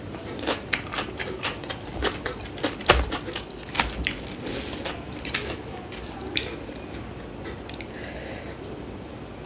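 Close-miked eating: chewing and wet mouth smacking with many sharp clicks, thinning out about two-thirds of the way through.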